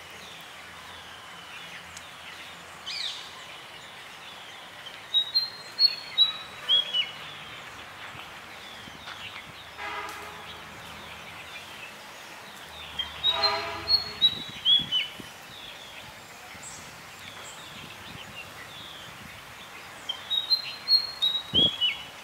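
A songbird repeating a short phrase of clear high notes that step downward in pitch, three times about seven seconds apart, over faint steady chirping and outdoor background noise.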